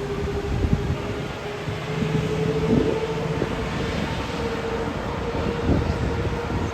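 A two-coach diesel passenger train passes over the level crossing: engine and wheel noise on the rails, with a steady whine held throughout.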